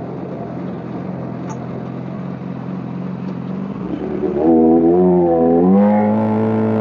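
Motorcycle engine running steadily under wind and road noise, then, about two-thirds of the way in, growing louder with a wavering pitch that climbs as the bike accelerates.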